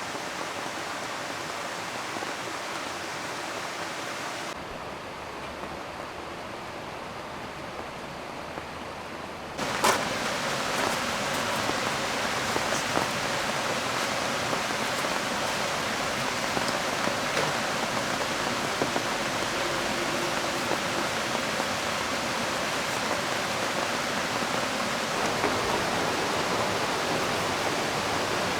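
Steady rain and a flowing river blended into one even wash of water noise. It drops to a thinner, quieter wash about four and a half seconds in. About ten seconds in it switches back with a sharp click to a louder, fuller wash, with scattered small ticks.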